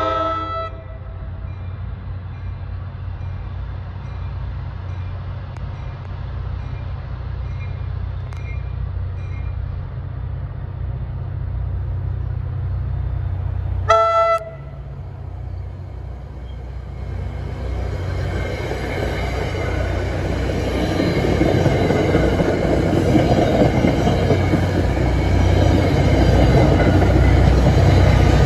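An NJ Transit passenger train approaching: a horn blast cuts off just after the start, and a single short horn toot sounds about halfway through over a steady low rumble. The rumble and the rushing noise of wheels on rail then build louder as the cars pass close by.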